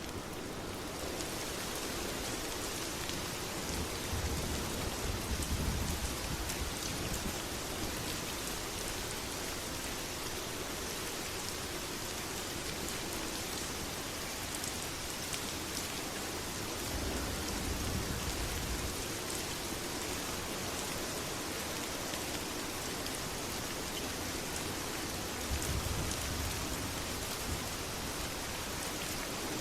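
Steady heavy rain falling, an even hiss, with three brief low rumbles of thunder spread through it.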